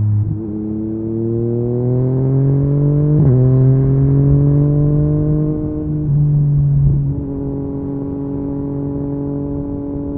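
Yamaha MT-09's inline-three engine through an Akrapovic carbon exhaust, ridden under load. The engine note climbs steadily, dipping at gear changes about three and six seconds in, then settles to a steady note for the last few seconds.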